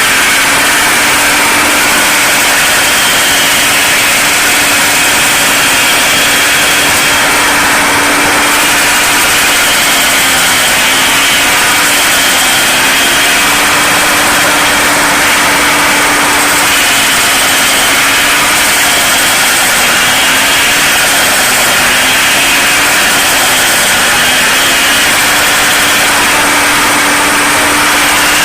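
John Deere 5225 tractor's diesel engine running hard to drive a PTO stump grinder, with a dense grinding noise over it. The engine pitch sags briefly several times as the grinder takes load; this tractor has less PTO horsepower than the big grinder is designed for.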